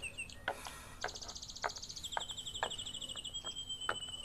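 Songbirds singing: falling chirps, then a fast trill and a run of high whistled notes ending in one held whistle, with a few faint clicks in between.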